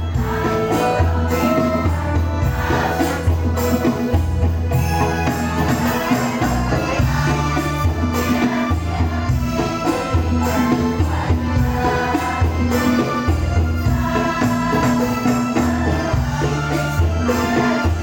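A choir singing a sholawat, an Islamic devotional song, over accompaniment with a repeating low bass line and steady percussion.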